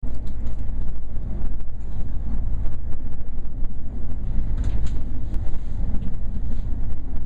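Passenger train running at speed, heard from inside the carriage: a steady low rumble of wheels on rail with running noise, and faint light clicks throughout.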